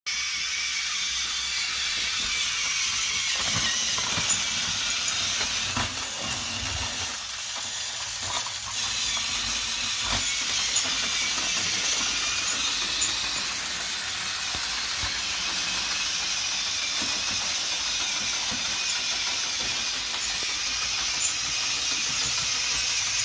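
1992 Toy State Christmas Magic Train, a battery toy train, running on its track: a steady whirring hiss with a few scattered clicks.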